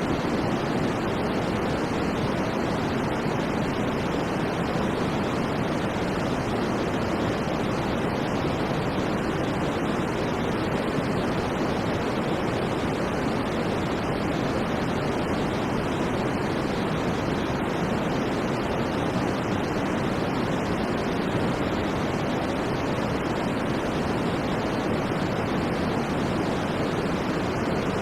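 Steady white noise for sleep: an even, unbroken hiss weighted toward the lower and middle range, with no change throughout.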